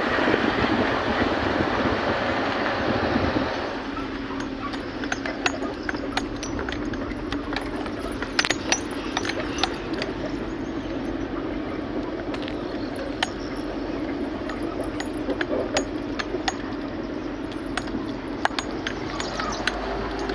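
Vehicle running with steady engine and road noise, louder for the first three and a half seconds and then easing, with many light clinks and rattles like jangling keys.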